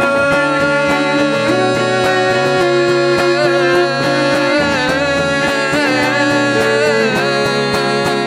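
Cello and electric guitar playing an instrumental passage, with long held notes that waver slightly.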